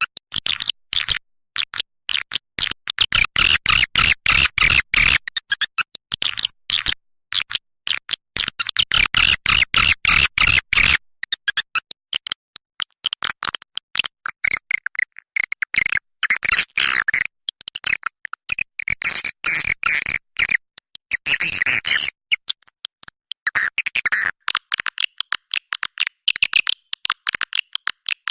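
Recorded swiftlet calls of the kind played to lure swiftlets to a nesting house: dense, rapid twittering chirps and clicks in bursts of a few seconds, with short breaks between them.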